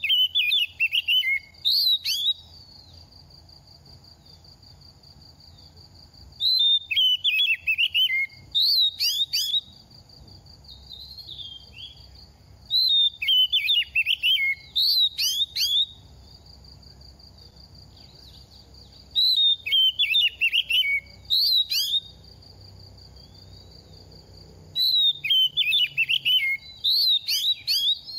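Oriental magpie-robin singing in five bouts, each a two- to three-second run of rapid, varied whistled phrases, with short pauses between them.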